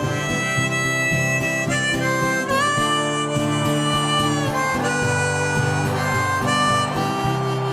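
Harmonica playing a melody of long held notes, with a bend up about two and a half seconds in, over strummed acoustic guitar: the instrumental introduction of a karaoke backing track, before the vocals come in.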